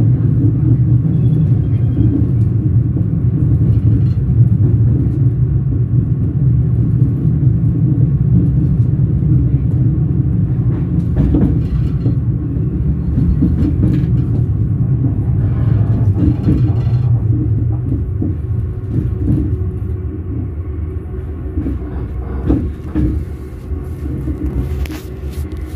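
Train wheels rolling on the rails, a steady low rumble with scattered clicks and knocks. The rumble eases somewhat about two-thirds of the way through.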